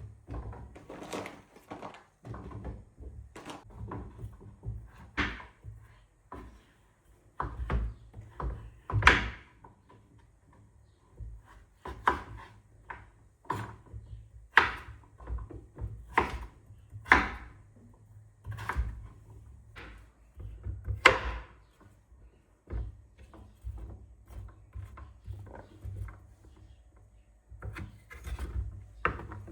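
Irregular knocks, taps and clicks, with some rubbing, as small objects are handled and set down.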